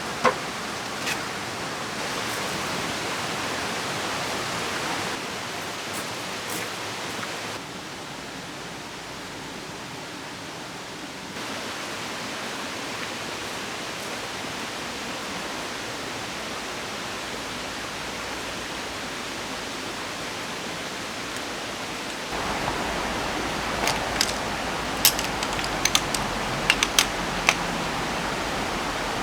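Steady rush of a flowing river and falling rain, shifting in level several times as segments change, with a run of sharp clicks or taps near the end.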